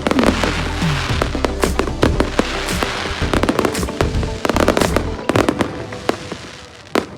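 Fireworks display: a rapid, dense run of bangs and crackles from exploding shells, thinning out briefly near the end.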